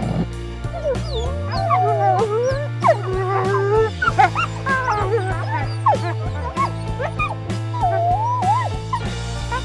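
Background music with a steady beat, over which an animal gives many short, high calls that slide up and down in pitch.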